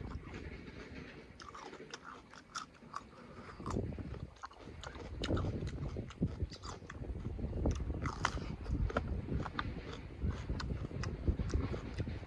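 Close-miked eating sounds: chewing and wet mouth clicks and smacks from a mouthful of chicken curry and rice, coming irregularly, over a low steady rumble.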